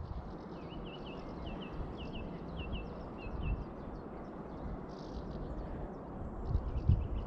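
A songbird singing a short phrase of paired high notes, repeated about ten times over three seconds, with fainter chirps from other birds. Under it runs a steady outdoor rush, with a few low bumps near the end.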